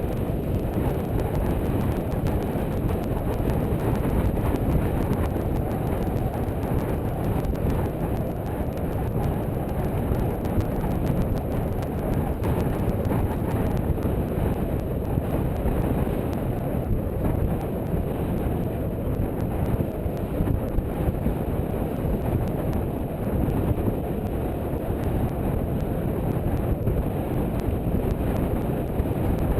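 Steady low rumble of wind buffeting the microphone aboard a sailboat.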